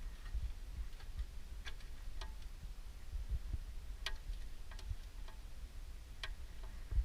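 Light, scattered metallic clicks and taps as the removed transmission oil pan and its small parts are handled, over a low steady rumble.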